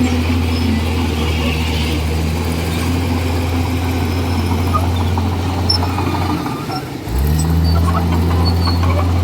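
Komatsu D41E bulldozer's diesel engine running steadily. About six and a half seconds in it dips and drops out briefly, then picks up again about a second later, with light clicking and rattling after that.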